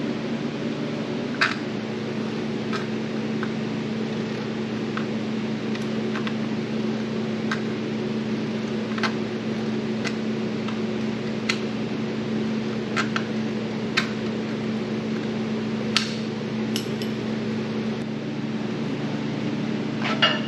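Sharp metallic clicks from hand tools working a sheet-metal patch panel, about a dozen, spaced a second or two apart and irregular. Under them, a steady hum of shop ventilation.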